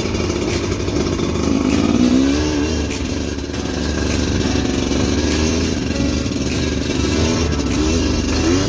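Motorcycle engine running under way, its pitch rising and falling as the throttle is opened and eased, with a clear rise about two seconds in and another near the end.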